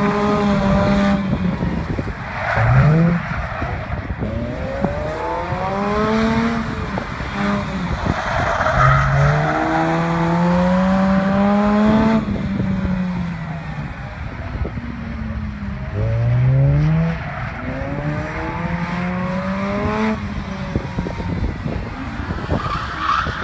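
Mazda RX-8's rotary engine revving up and down again and again as the car drifts around a cone, the revs climbing sharply twice, with tyres squealing and scrubbing at times.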